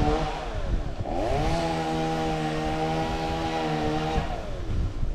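Chainsaw engine throttled up to a high, steady whine for about three seconds, dropping back toward idle just before and just after.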